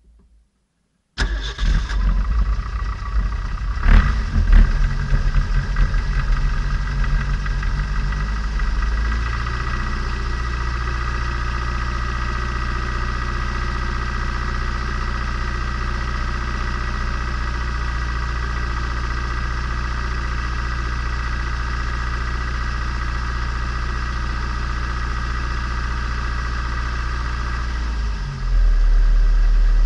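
A turbocharged Nissan Micra engine, in break-in, starting about a second in, running unevenly for several seconds, then settling into a steady idle. Near the end the sound turns louder and deeper.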